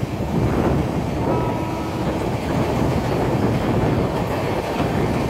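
Express passenger train running at speed, heard from on board: a steady rumble and clatter of the coaches on the track. A faint thin tone rises out of it for about a second, a little over a second in.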